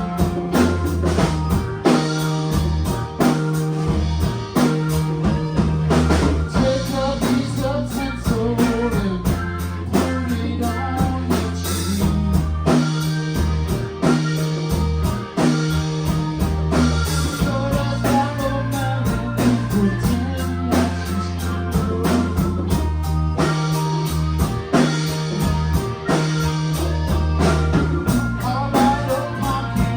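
A live band playing a blues-rock instrumental passage: electric guitar over bass and drum kit with a steady beat.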